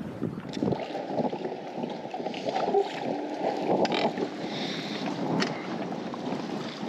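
Wind and water noise on an open fishing boat, a steady rumbling hiss with a few light clicks.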